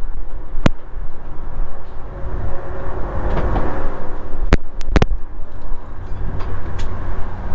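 A steady low mechanical rumble, with a sharp click under a second in and three quick sharp clicks around four and a half to five seconds in.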